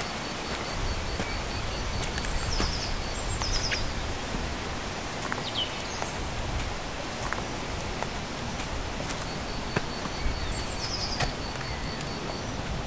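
Small birds singing over a steady hiss. One bird repeats a thin, high note about four times a second in two runs of roughly three seconds each. Short falling chirps come in between, with a few faint clicks.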